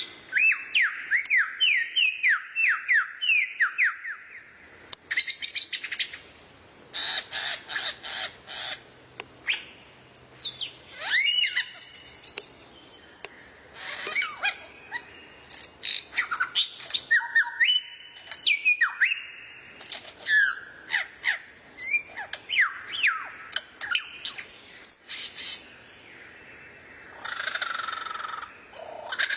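Songbird song from a bird-song training recording: a quick run of falling whistles, about three a second, for the first few seconds, then varied chirps, rattling clicks and short sweeps with brief pauses between phrases.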